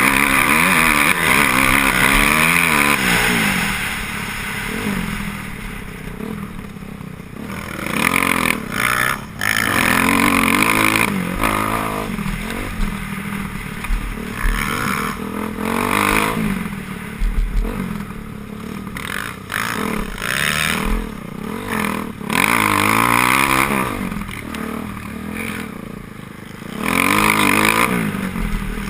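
Motocross bikes racing past, their engines revving up and falling off again and again as they swell loud and fade over the course of the heat.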